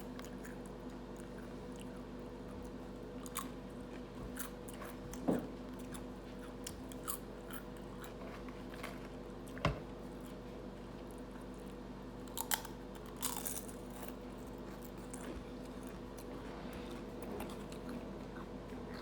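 A person chewing and biting food close to the microphone, with a few sharp clicks over a steady low hum.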